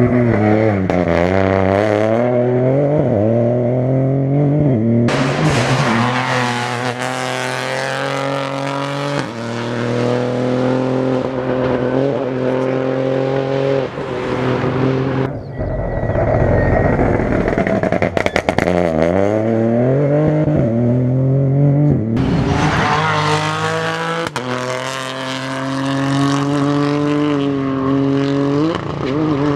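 Rally car engines revving hard past the spectators. The engine pitch drops under braking and then climbs in steps through the gear changes as each car accelerates away, several times over, with tyre noise between.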